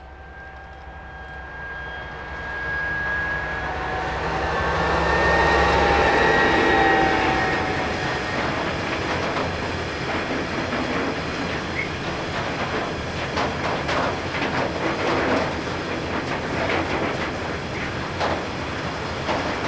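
DB class 232 'Ludmilla' diesel locomotive, with its Kolomna V16 two-stroke engine, approaching and passing: a deep engine drone with a whine that drops slightly in pitch, loudest about six seconds in. After that a long train of freight hopper wagons rolls by with a steady clickety-clack of wheels over rail joints.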